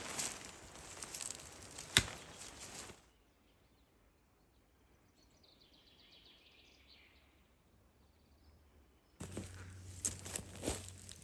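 Outdoor rustling and handling noise with one sharp click about two seconds in. It cuts off suddenly to a quiet stretch where a bird sings faintly, and the rustling and clicking come back abruptly near the end.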